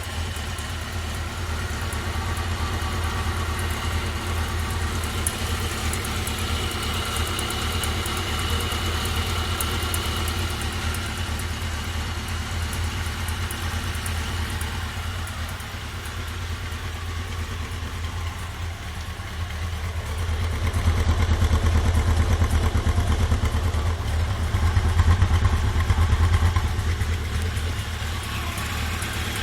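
1980 Honda CB750F's air-cooled DOHC inline-four engine idling warm, with a light clicking mixed in that appears only once the engine is fully hot; its cause is unknown to the owner, who reports even 125 psi compression on all four cylinders. The engine sound grows louder for several seconds about two-thirds of the way through, then settles back.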